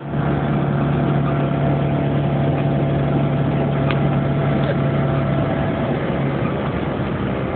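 Citroën 2CV6's air-cooled flat-twin engine running at a steady, even pitch as the car drives along.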